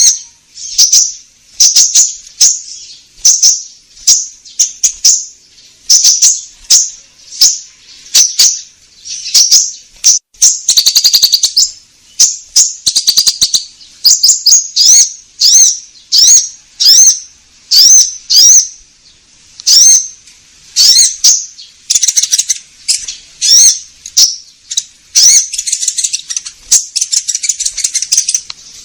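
Konin, a songbird, calling loudly in a long run of short, high chirps, roughly one or two a second, broken by a fast rattling trill about a third of the way in and by denser, harsher chattering in the last third.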